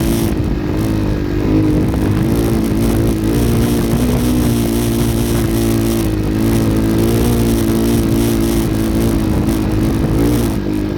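Off-road motorcycle engine running steadily under load, its revs rising and falling slightly.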